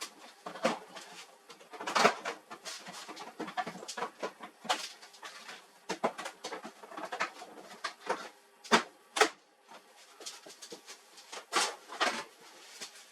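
Irregular clicks and knocks of hard objects being handled, with a few louder knocks about 2 s, 9 s and 12 s in.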